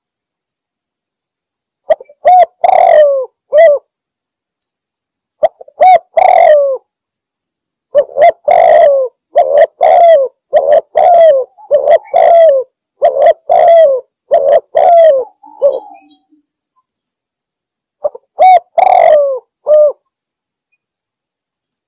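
Spotted dove (tekukur) cooing loudly in repeated phrases separated by silent gaps, with a long run of about a dozen coo notes in the middle, each note dipping slightly in pitch. This is the call used to challenge a rival.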